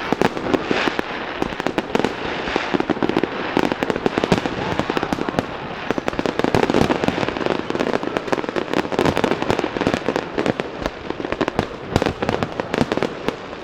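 Fireworks display going off without a break: many overlapping bangs and rapid crackling.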